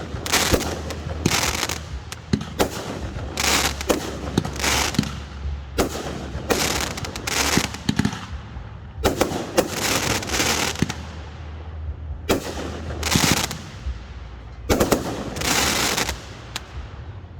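Fireworks display: a steady run of bangs, each followed by a short crackling hiss, about one burst or cluster of bursts every second.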